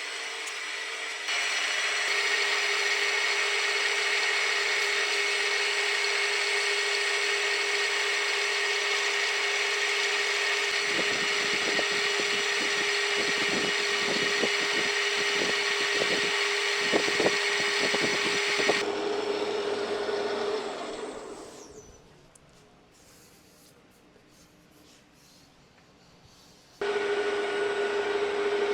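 Milling machine running at about 800 rpm under power feed, its cutter working the part, with an irregular rattle during the cut. About twenty seconds in the machine winds down and goes nearly quiet; a motor starts up again near the end.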